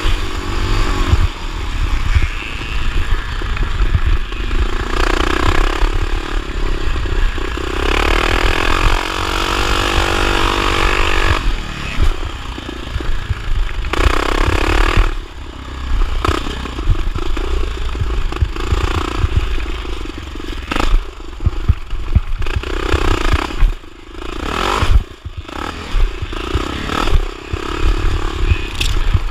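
1979 Honda XR500's single-cylinder four-stroke engine racing on a motocross track, revving up and falling off again and again, with clattering knocks over a heavy low rumble.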